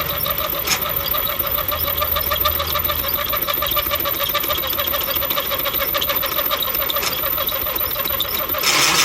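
Drill cutting through steel plate, a steady fast rhythmic chatter. Near the end a louder hissing noise comes in.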